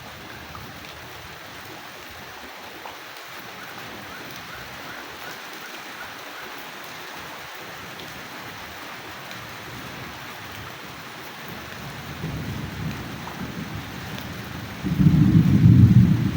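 Steady rain falling, with a low rumble of thunder that starts building about twelve seconds in and breaks into a loud, sudden thunderclap near the end.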